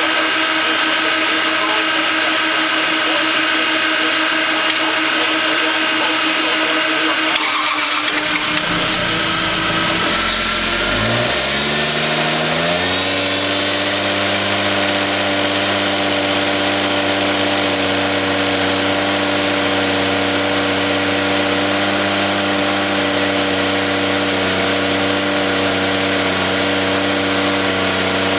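Rebuilt Toyota 2JZ-GTE twin-turbo straight-six in a Lexus SC300 on its first start after the rebuild. A steady whine runs for about the first seven seconds. Then the engine note climbs over about five seconds from a low rumble to a higher pitch and holds steady for the rest.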